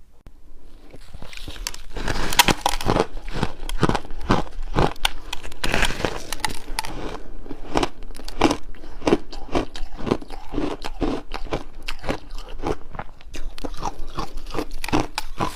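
Crunchy chewing of a chunk of refrozen shaved ice: a steady run of sharp crunches, roughly two or three a second, starting about a second in.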